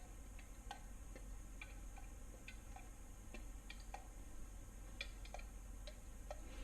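Faint, irregular light metallic clicks and ticks as steel ARP main studs are handled and started by hand into the oiled threads of an LS engine block.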